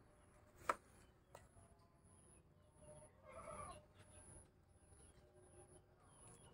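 Near silence with faint background sounds: a sharp click near the start, a short bird call about halfway through, and a faint high chirp repeating about every two-thirds of a second.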